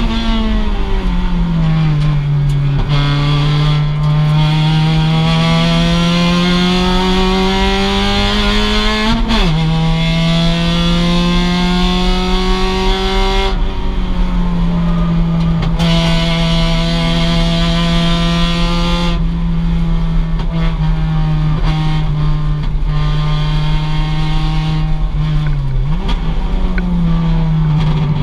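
2006 Mazda MX-5's stock four-cylinder engine running hard at high revs on track. Its pitch climbs slowly and steadily through a gear, then drops sharply at gear changes, once about a third of the way in and again near the end.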